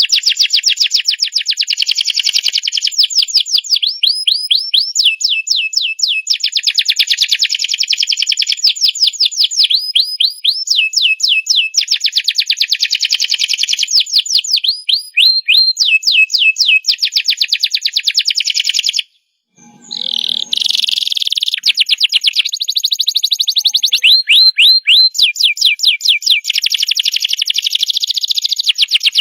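Domestic canary singing a long continuous song of rapid repeated notes, switching from one trill or roll to the next every second or two. The song breaks off briefly about nineteen seconds in.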